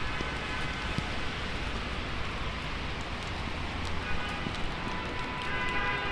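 Heavy rain falling on a city street, an even hiss with scattered sharp drop taps close by. A steady low rumble runs underneath.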